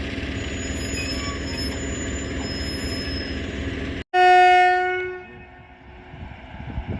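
Freight train running with a steady rumble. After an abrupt cut about four seconds in, a loud single-pitch locomotive horn blast sounds for about a second and then fades.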